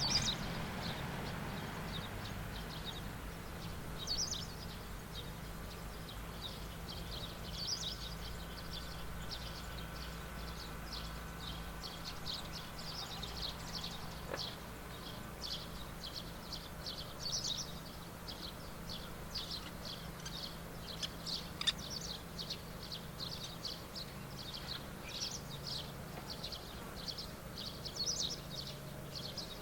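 Small birds chirping over and over in quick short notes, over a low steady hum in the background.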